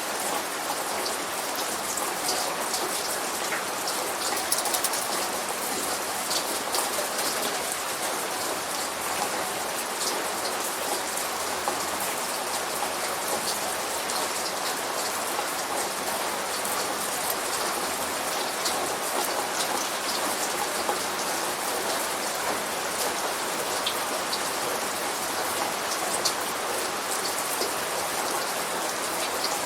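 Steady light rain falling, with many individual drops ticking sharply over an even hiss; no thunder.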